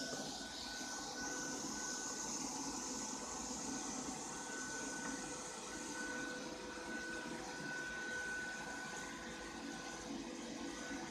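Ropo Glass robot vacuum running steadily: a motor and fan hum with a hiss, and a thin high whine that comes and goes.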